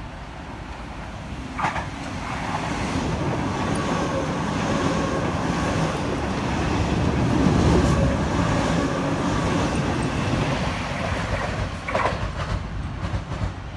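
Sydney Trains Waratah (A set) electric train running through the platform without stopping: its noise builds over a few seconds, is loudest about halfway, then eases, with a faint steady whine under the rumble.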